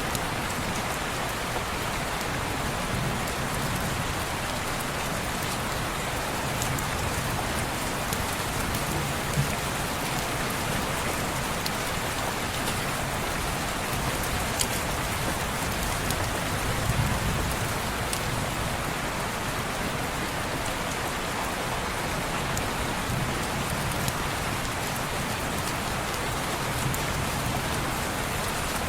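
Steady rain falling on a window, an even hiss with occasional faint drip ticks and a brief soft low swell about halfway through.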